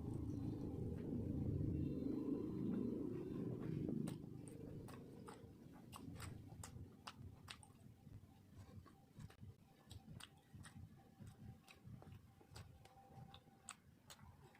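Close-up chewing and mouth sounds of a person eating rice cake with chicken gravy. A fuller, denser chewing sound runs for the first four seconds, then gives way to a run of sharp wet smacks and clicks, several a second.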